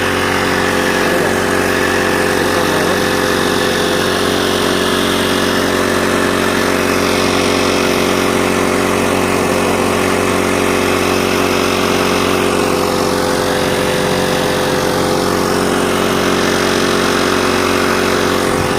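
Small boat engine on a test run, running steadily at one constant speed with no revving.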